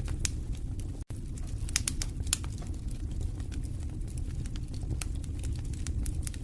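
Wood fire in a fireplace crackling, with irregular sharp pops and snaps over a steady low rumble of the flames. The sound cuts out for an instant about a second in.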